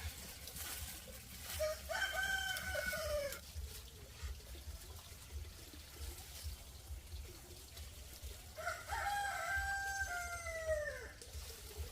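Rooster crowing twice, each crow a long call that falls in pitch at the end.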